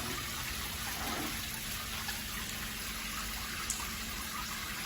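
Water running steadily from a shower panel's spray and splashing down.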